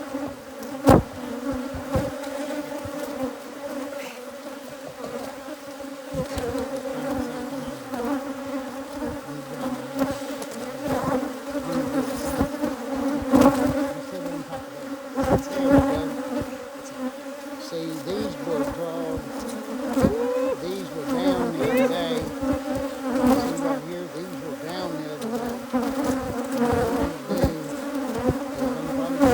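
A mass of Africanized hybrid honeybees buzzing around an opened hive in a steady, dense hum, with scattered knocks and clicks from handling the hive. The hive has been opened and smoked, and alarm pheromone is in the air.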